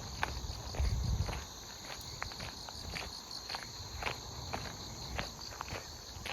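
A chorus of autumn grass insects, crickets among them, chirring steadily and high, with footsteps on a path about twice a second.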